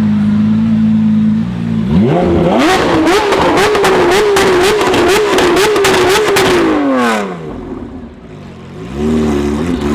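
A sports car engine is revved hard. It climbs sharply from idle about two seconds in and is held high and wavering for about four seconds, with a fast crackle from the exhaust. The revs then drop and the engine gives one short blip before settling back to idle.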